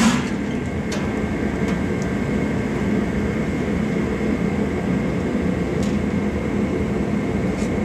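An engine running steadily, giving an even drone, with a few faint light clicks over it.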